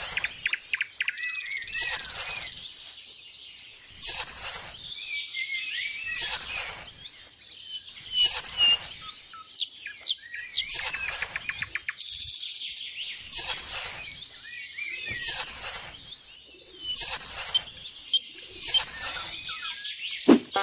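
Birds chirping and calling, with short high calls recurring about every two seconds amid quicker twittering.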